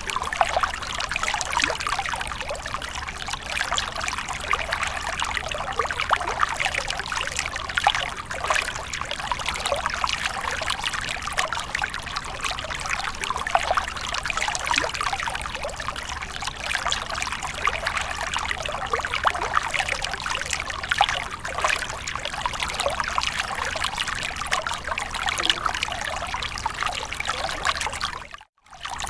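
Water splashing and trickling steadily, with many small splashes and droplets, cutting out briefly near the end.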